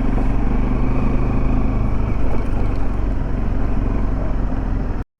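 A motor vehicle's engine running steadily with road noise, cutting off suddenly near the end.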